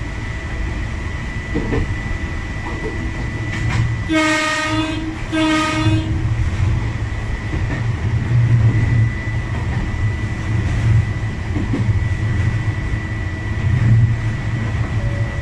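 Electric train running along the track, heard from the driver's cab: steady wheel rumble with a thin high whine. About four seconds in, the train's horn sounds two short blasts, the second a little shorter.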